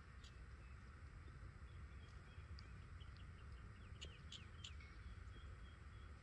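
Quiet outdoor ambience: distant birds give a few short, high chirps, a small cluster of them about four seconds in, over a low steady rumble.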